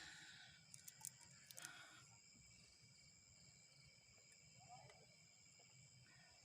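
Near silence, with a faint steady chorus of insects shrilling on several high pitches; a few soft clicks in the first two seconds.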